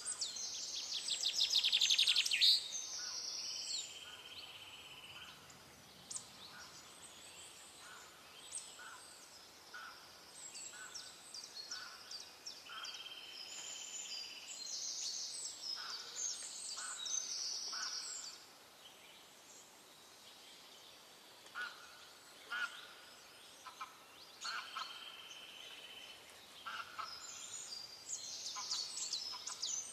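Several birds calling over each other: high-pitched chirps, short whistled notes and trills throughout, the loudest a rapid trill about two seconds in, over a faint steady background hiss.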